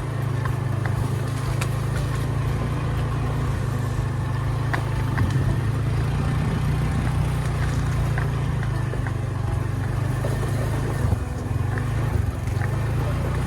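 An engine running steadily at an even speed, a continuous low drone.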